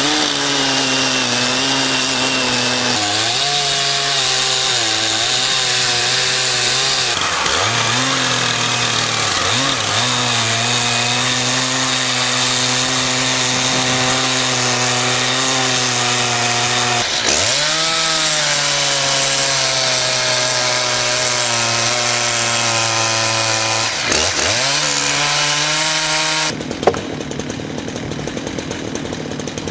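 Chainsaw running at high revs as it cuts through a tree trunk, its pitch dipping and recovering several times as the chain bogs under load. Near the end the engine sound stops abruptly, giving way to a quieter rattling sound with one sharp knock.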